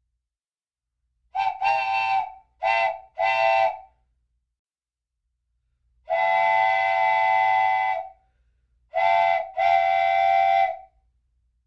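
Train whistle toots, a chord-like steam-whistle tone: four short toots in quick succession, a pause, one long blast of about two seconds, then a short toot and a longer one, with dead silence between the blasts.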